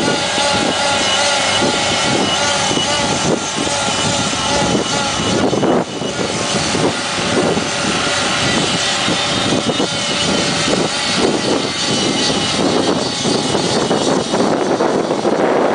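Jacobsen fairway mower running steadily, its engine note holding a constant pitch under a dense, rapid clatter.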